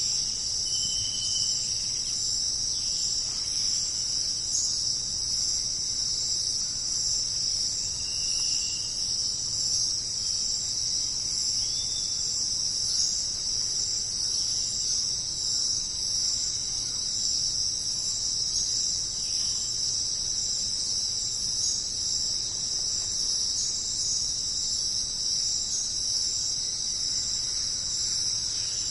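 Dense insect chorus, a continuous high shrill buzz that holds steady throughout. A few short, faint whistled notes sound over it in the first dozen seconds.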